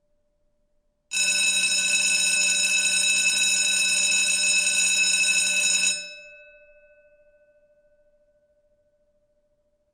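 An electric bell rings continuously for about five seconds, then stops and its ringing dies away over the next three seconds.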